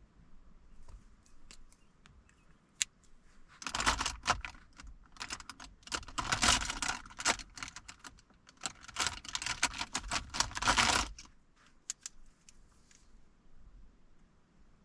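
A quick run of small clicks and taps for about seven seconds, starting about four seconds in, with a few single clicks before and after: hands at work on desk things.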